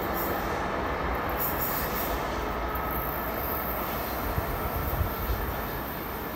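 White electric passenger train running away along the tracks: steady rolling noise of wheels on rail with a high hiss and a faint whine, easing off slightly near the end.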